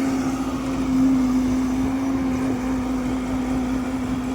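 Heavy diesel engine running steadily at a constant speed, a steady hum over a low rumble.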